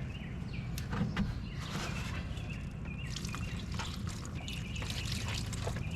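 Scattered scratching and tapping of a brush on a corroded battery terminal during cleaning, over steady outdoor background noise with faint bird calls.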